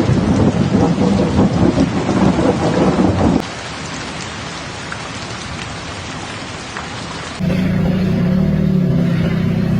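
Heavy rain pouring with a loud, fluctuating low rumble, cutting at about three and a half seconds to quieter, steady rain. About two seconds before the end, a steady low drone takes over.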